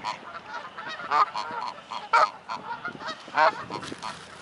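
Geese honking: three louder honks about a second apart among quieter calls from the flock.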